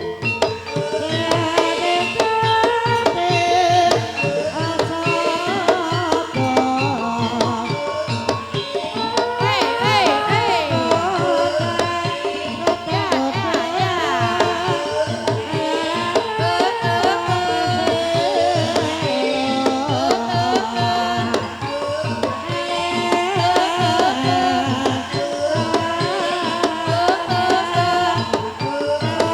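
Banyumasan ebeg music: a gamelan ensemble playing steadily, driven by kendang hand drumming, with a singer's voice gliding over it.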